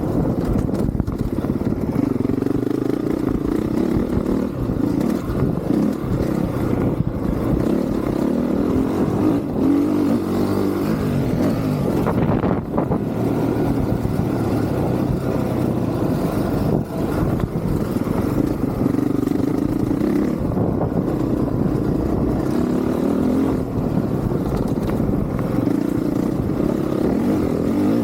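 Honda CRF450R dirt bike's single-cylinder four-stroke engine revving up and down as it is ridden hard.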